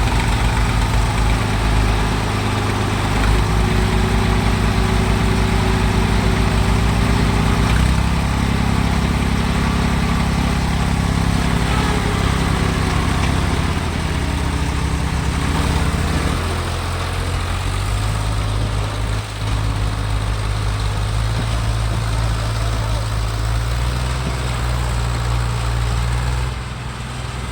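Tractor diesel engine running loud and steady. About sixteen seconds in its note changes and settles into a slightly quieter, steadier run.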